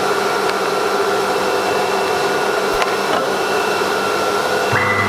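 CNC router running steadily, a whining motor tone over rushing air noise, as the machine resumes automatically after its safety stop. Near the end a higher tone and a low hum join in.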